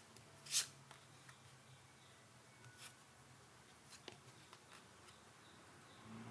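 Tarot cards being handled: one short card swish about half a second in, then a few fainter slides and light taps of the cards.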